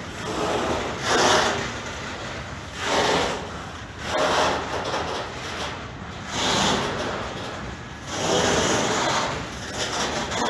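Freight train passing at close range, its wagons going by in repeated surges of rolling and rattling noise every couple of seconds.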